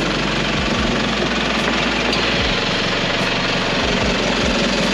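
Four-wheel-drive vehicle's engine idling steadily.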